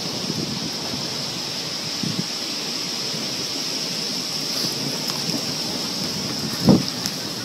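High wind from a small storm blowing steadily as a constant rushing noise, with a short, louder gust near the end.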